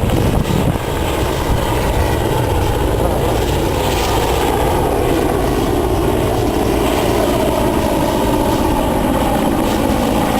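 Aircraft engine noise from a plane or helicopter flying at an air show, a steady loud drone.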